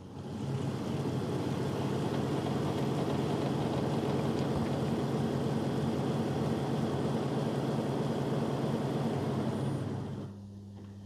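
Narwal Freo Z Ultra robot vacuum-mop's base station running steadily with a low hum during its preparation cycle before cleaning. It cuts off about ten seconds in.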